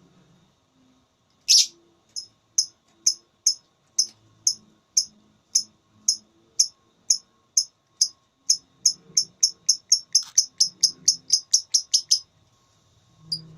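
Lovebird ngekek call: one loud high shriek, then a long run of sharp, high-pitched chirps that starts at about two a second and speeds up steadily before breaking off.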